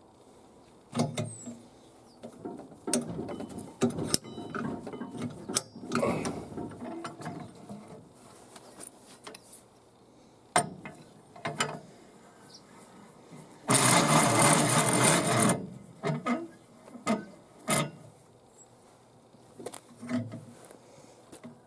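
Hand-tool work on a truck driveshaft's U-joints: metal clinks, knocks and ratcheting, with a loud, even hissing noise lasting about two seconds near the middle.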